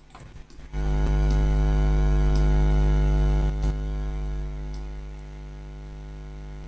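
Loud, steady electrical mains hum with a buzz of many overtones on the recording. It starts under a second in and drops to a lower level about two-thirds of the way through, with a few faint clicks over it.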